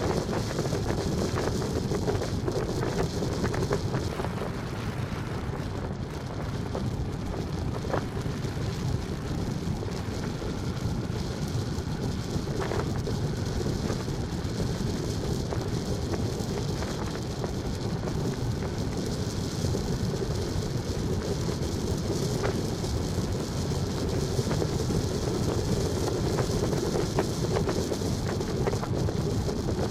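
Steady rumble of a moving vehicle on the road, with road and wind noise and no change in pace.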